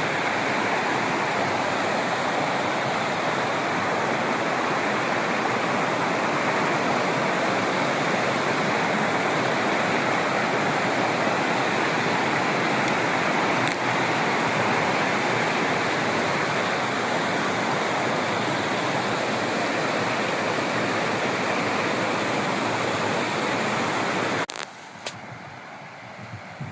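Waterfall's water falling and rushing in a steady, loud roar. It cuts off suddenly near the end, leaving quieter wind noise.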